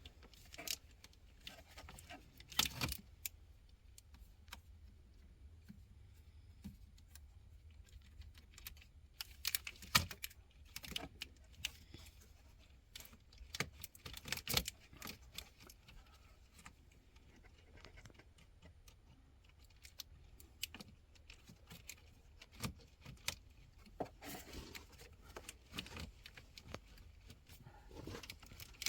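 Scattered metallic clinks and knocks at irregular intervals, from hand tools and metal parts being handled while a car battery is set back in and secured.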